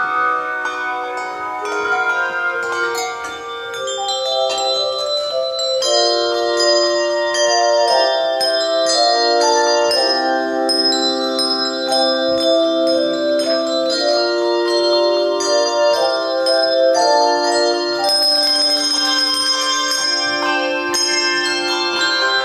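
Handbell choir playing a piece in chords, the bells ringing on with new chords struck every second or so.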